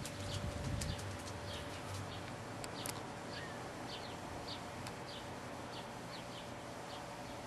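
Small birds chirping: short, high, falling chirps a few times a second, over a faint steady hum.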